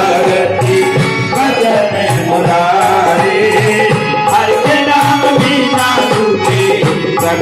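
Devotional hymn (shabad) music with tabla keeping a steady rhythm and a rattling hand percussion over a sustained melody.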